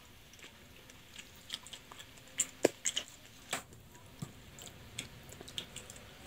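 Close-miked chewing of spicy boneless chicken feet: soft wet mouth sounds and scattered small clicks, with a few sharper clicks about two and a half to three and a half seconds in. A plastic spoon is scooping in a metal tray.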